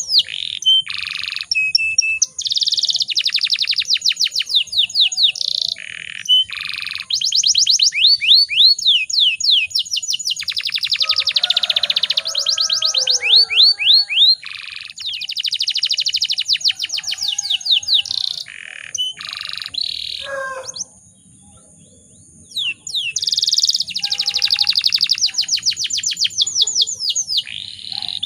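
Domestic canary singing a long, fast song of rapid trills and rolling phrases, broken by a pause of about two seconds past the two-thirds mark.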